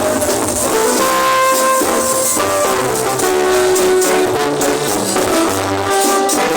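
Mexican banda music: a brass band with trumpets and trombones playing held melody notes over a stepping bass line, with no singing.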